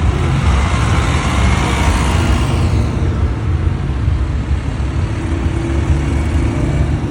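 A truck driving past, its engine and tyre noise swelling about one to two seconds in and fading after about three seconds, over a steady low rumble.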